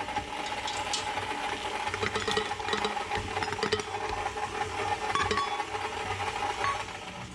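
KitchenAid stand mixer running steadily, its beater working cookie dough with oatmeal and chocolate chips, with light clicks and rattles from the bowl.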